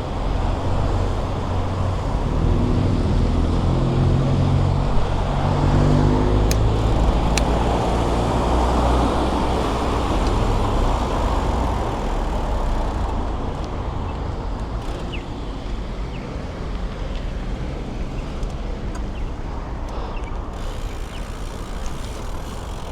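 Busy road traffic heard from a bicycle: cars and other vehicles passing steadily, with an engine hum that rises and falls over the first several seconds and a few isolated clicks.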